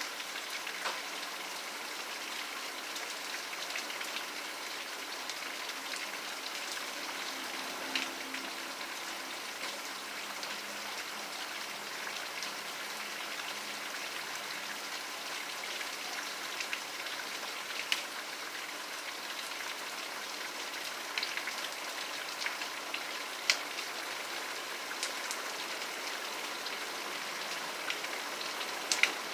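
Steady rainfall: an even hiss of rain with scattered louder drops ticking on a nearby surface.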